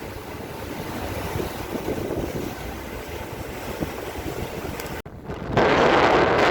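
Strong wind blowing over the microphone aboard a boat, a steady rushing with a low rumble underneath. About five seconds in, the sound cuts and the wind noise returns much louder.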